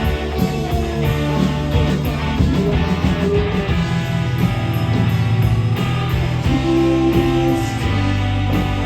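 Live rock band playing an instrumental passage without vocals: guitars over bass and drums.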